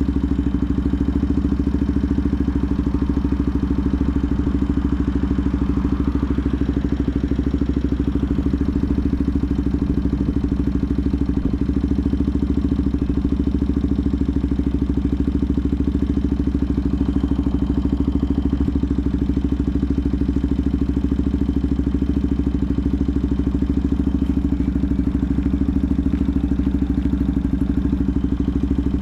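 Benelli TNT 125's single-cylinder engine idling steadily at an even pitch.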